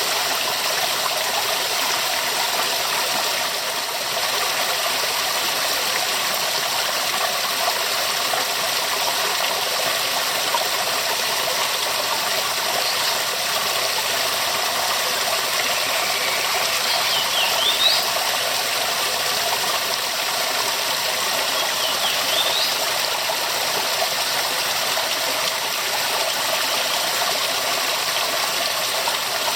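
Waterfall: a steady, even rush of falling water, with a few faint high chirps near the middle.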